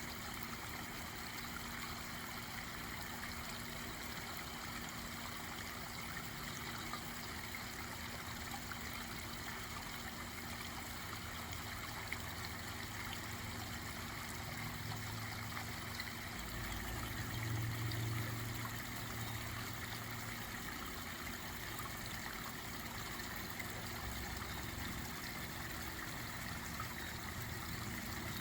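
Garden pond waterfall running: steady trickling and splashing of water. A low rumble swells briefly about two-thirds of the way through.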